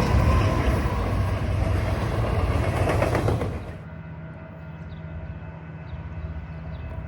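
A train passing close by, its cars running loud over the rails. About three and a half seconds in, the sound drops abruptly to a quieter, steady low hum.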